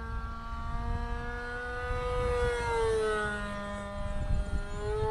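Small engine of a radio-controlled model sport plane running steadily in flight. Its pitch rises about two seconds in and then drops, as the plane passes by, over the low rumble of wind on the microphone.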